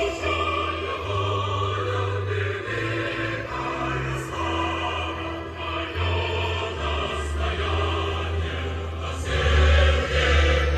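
Choral music: a choir singing sustained lines over instrumental accompaniment with a strong bass line that steps from note to note.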